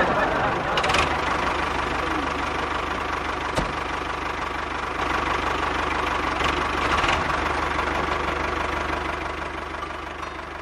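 Small engine of a homemade mini tractor running steadily, fading a little near the end.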